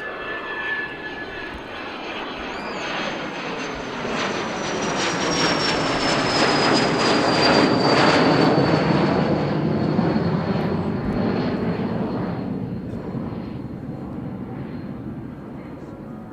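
A jet aircraft passing close by: its engine noise swells to a peak about eight seconds in and then fades, with a high whine that falls in pitch as it goes past.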